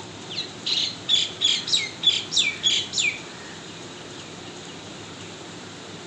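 A bird singing a run of about nine quick notes that each fall sharply in pitch, roughly three a second, lasting about three seconds and stopping a little after three seconds in.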